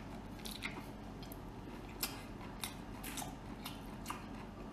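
A person chewing braised octopus, with soft, wet mouth clicks and smacks scattered irregularly.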